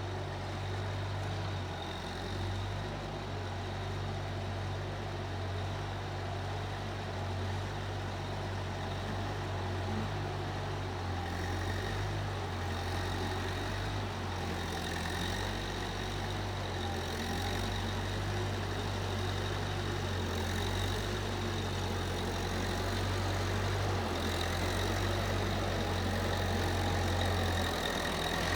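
Case 1530 Uni-Loader skid steer's engine running steadily at idle, a low steady drone.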